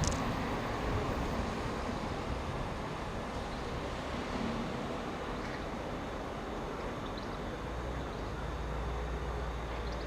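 A train running: steady noise with a low hum underneath.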